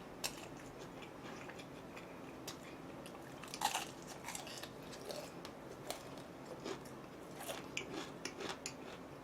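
A person chewing and biting food close to the microphone: quiet, irregular small crunches and mouth clicks, a louder crunchy bite about three and a half seconds in.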